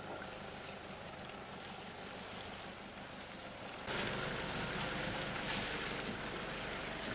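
A 4x4 vehicle driving slowly away over a rough dirt track, its engine a faint, steady hum. About four seconds in this gives way to a louder, even hiss.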